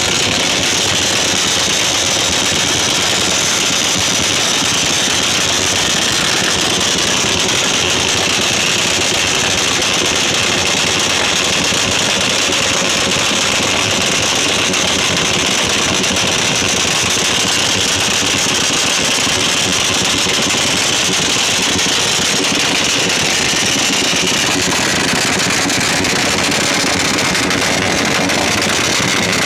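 Motorcycle engines, one of them a scooter, held wide open at full revs together: a loud, steady, unbroken high-pitched engine drone with no let-up in the throttle.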